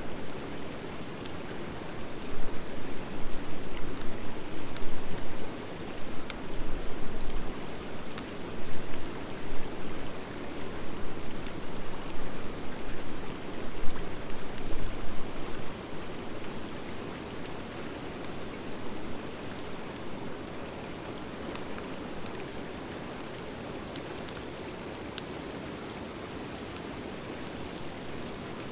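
Wood fire of driftwood and dry hardwood burning: a steady rushing of flame with scattered sharp crackles and pops. The rushing swells and falls unevenly through the first half, then settles to a steadier, quieter level.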